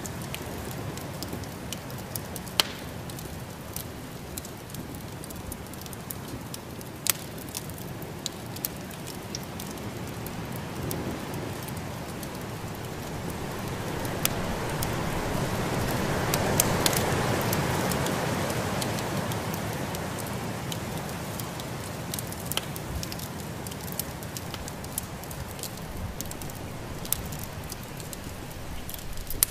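Wood fire in a fireplace crackling with scattered sharp pops over a steady rush of snowstorm wind, which swells to a peak about halfway through and then eases off.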